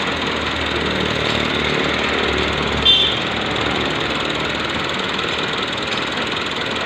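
A 640-model tractor engine running steadily, with one brief high chirp about three seconds in.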